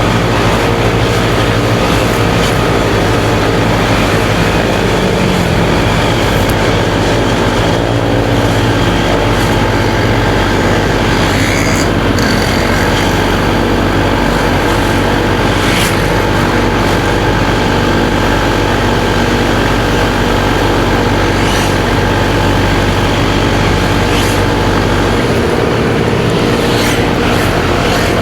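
Motorcycle engine running steadily while being ridden, mixed with road and traffic noise. The engine note shifts near the end.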